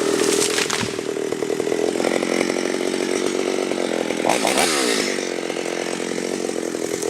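Two-stroke chainsaw running at high revs through a tree-felling cut. About four and a half seconds in, the engine note dips briefly with a burst of hiss, then steadies again.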